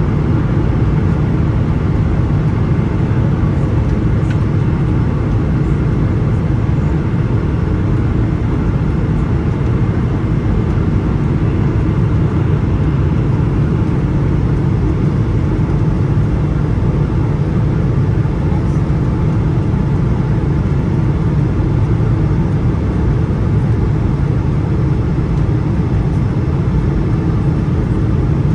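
Steady cabin noise inside a Boeing 777-300ER: a loud, even, deep rumble of its GE90 engines and the airflow, unchanging throughout with no thumps or surges.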